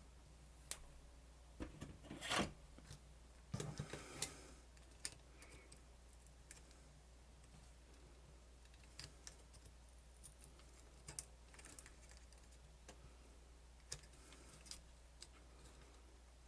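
Small clicks and rustles of plastic parts being handled and pried at while a camcorder is taken apart, loudest in a short burst about two seconds in and again around four seconds, then only scattered faint clicks. A steady low hum runs underneath.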